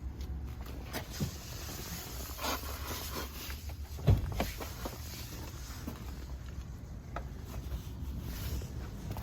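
Footsteps and handling noises: scattered knocks and short rustles, with one louder thump about four seconds in.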